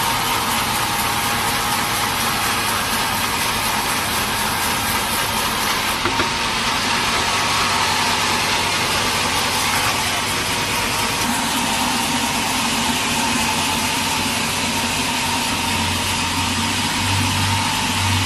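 Sawmill machinery running steadily: a continuous mechanical drone with a steady whine. A low hum joins it near the end.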